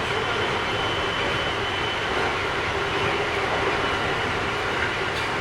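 Keikyu 1000 series electric train with Mitsubishi IGBT inverter running at steady speed, heard from inside the car: a steady rumble of wheels and running gear with a thin high tone held throughout. The uploader finds this trainset slightly noisier than other sets.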